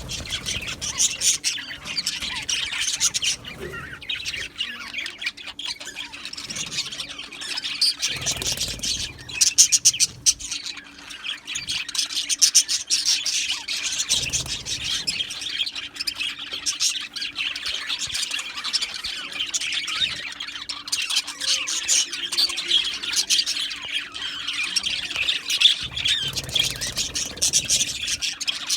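Many budgerigars (budgies) chattering and chirping at once: a dense, continuous twitter of overlapping, rapid calls with occasional louder squawks.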